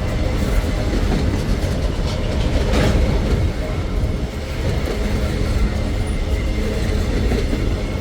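A freight train rolls past at close range: steady heavy rumble of wagons, with clacking of steel wheels over the rails and a short sharp clatter about three seconds in.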